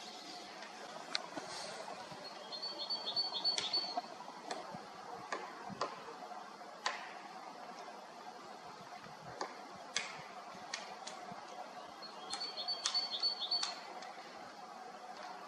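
A small bird gives two short runs of rapid high chirps, about two seconds in and again near the end, among scattered faint sharp clicks.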